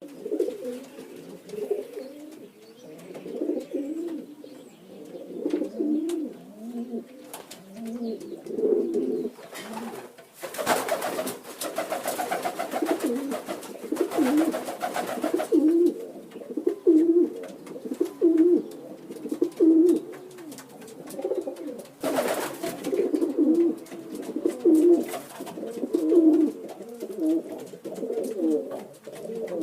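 Several pigeons cooing over one another, with low repeated coos throughout. Louder bursts of noise come about a third of the way in and again briefly later on.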